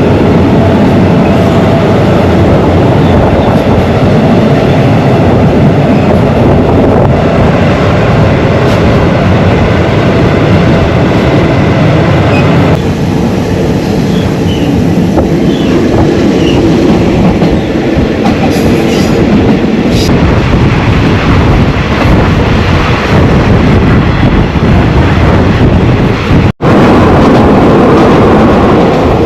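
Passenger train running on the rails after pulling away: a loud, steady rumble from the carriages, with the clickety-clack of wheels going over the rail joints.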